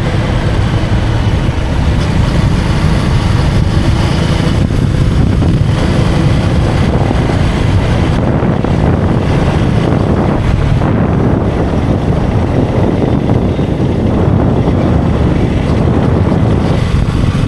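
Steady wind rush on the microphone over a KTM Duke 250's single-cylinder engine running while riding along a highway.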